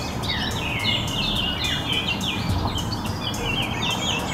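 Songbirds singing: a run of quick, overlapping chirping phrases over a steady background hiss.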